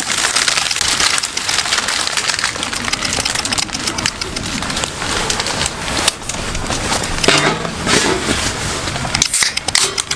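Heavy rain pouring steadily, with many sharp drop clicks in the hiss and a brief pitched sound about seven seconds in.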